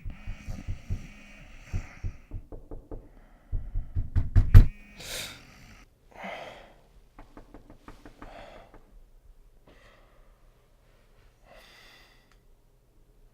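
A quick series of knocks or thuds that builds to its loudest about four and a half seconds in, followed by a few short breathy sounds.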